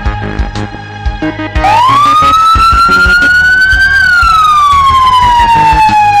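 A siren wailing over background music with a steady beat: about a second and a half in it starts loud, rises for a couple of seconds, then falls slowly.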